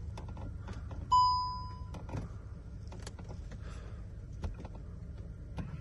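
Switch clicks as the Volkswagen Golf GTI's power-folding door mirrors are operated, with a single short electronic beep about a second in.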